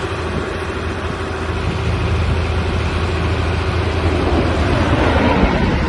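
A heavy engine running steadily: a low hum under a hiss of noise.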